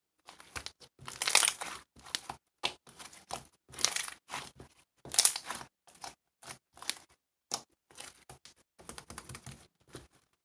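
Irregular run of short crinkling and rustling noises, as of something being crumpled or handled, with a few sharper clicks among them.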